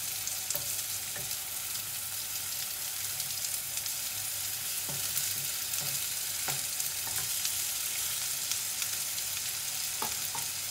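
Chicken thighs and sliced onions sizzling in a frying pan, seared on higher heat, with a steady hiss. A wooden spatula scrapes and knocks against the pan now and then as the pieces are stirred and turned.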